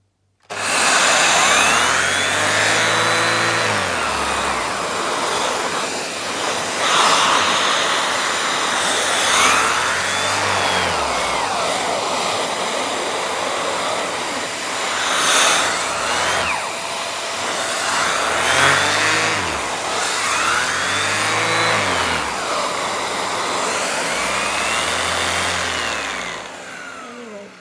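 Vax Air Stretch Pet Max upright vacuum cleaner switched on and running with its upholstery brush on the extension pole. The motor's pitch swings up and down many times as the suction pulls at the brush. It is switched off near the end.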